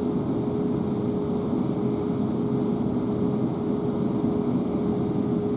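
Interior noise of a South Western Railway Class 444 Siemens Desiro electric multiple unit: a steady rumble with a constant whine held throughout.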